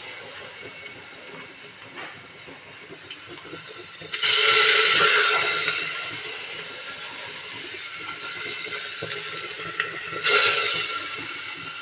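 Pork pieces sizzling in a hot cooking pot as their fat renders out into oil, a steady hiss with loud surges of sizzling about four seconds in and again near the end.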